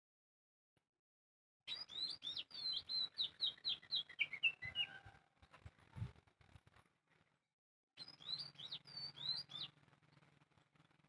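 A songbird chirping in quick runs of short, high, down-slurred notes, several a second: one run of about three seconds, then after a pause a second, shorter run.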